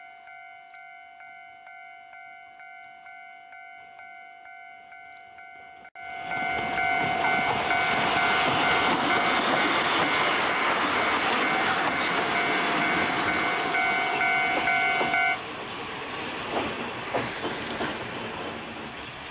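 A railway level-crossing warning bell rings steadily at about two to three strokes a second. About six seconds in, a Kotoden electric railcar passes close by, its wheels and running gear loud under the bell. Near the end the bell stops, leaving the rumble and wheel clicks of the cars on the rails.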